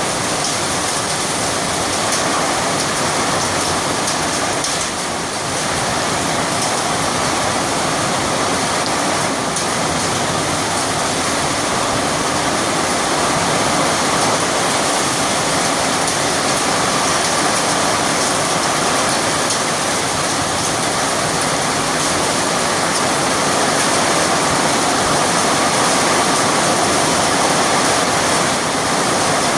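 Heavy rain falling: a steady, loud hiss of water.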